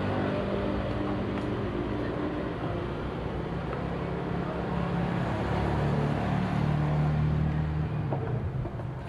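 Parsun 3.6 hp outboard motor running, its pitch shifting up and down and rising for a few seconds before easing off near the end.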